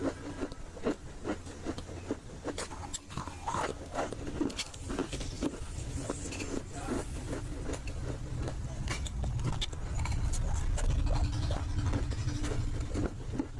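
Close-up crunching of dry roasted nakumatt edible clay being bitten and chewed: many irregular, crisp cracks, over a low steady hum in the background.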